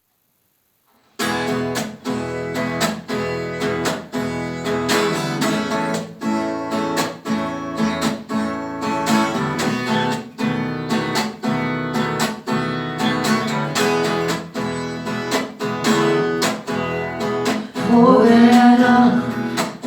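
Acoustic guitar strummed in a steady rhythm as a song's intro, starting about a second in after silence. A voice begins singing near the end.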